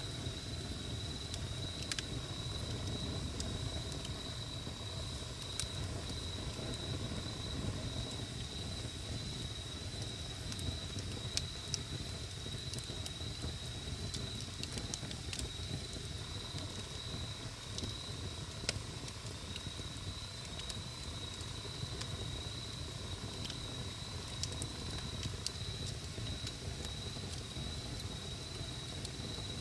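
Wood campfire burning with a low rumble and sparse, sharp crackling pops, under a steady high-pitched insect trill.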